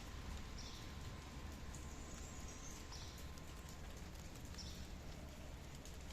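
Steady light rain falling, with a low rumble underneath and a few short, high chirps heard faintly through it.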